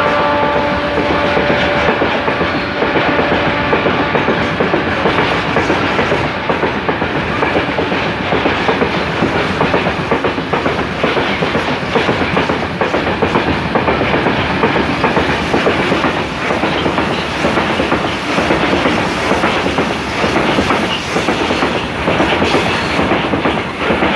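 Freight train of covered hopper wagons rolling past at close range, the wheels clicking steadily over the rail joints in a continuous clickety-clack. A steady tone from the diesel locomotives fades out in the first few seconds.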